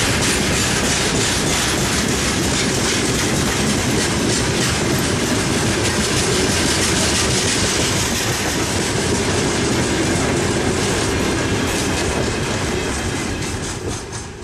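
Train passing close by: steady loud rolling noise of the wagons with the wheels clicking over rail joints, dying away near the end as the last cars go by.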